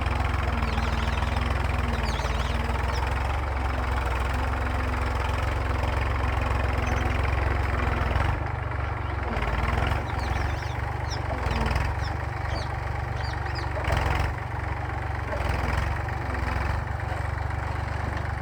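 Massey Ferguson tractor engine running steadily while pulling a plough, easing off slightly about eight seconds in.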